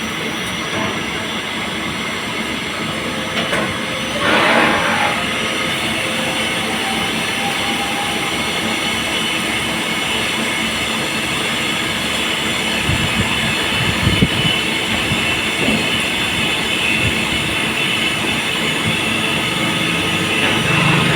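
CNC machine running with a steady mechanical noise, swelling briefly about four seconds in, with a few low knocks near the middle.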